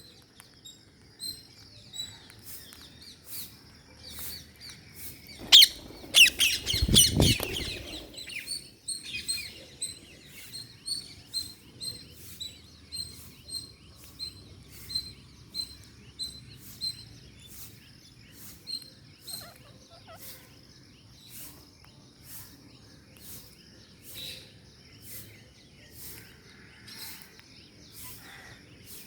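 Ring-necked parakeets chirping in short, high notes, with a louder burst of calls from about six to eight seconds in. An even ticking, about two ticks a second, runs underneath.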